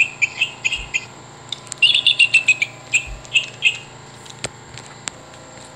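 Sound chip in a Wild Republic Audubon plush bald eagle playing its recorded bald eagle call: two runs of quick, high chirps that slide down in pitch. Two sharp clicks follow near the end.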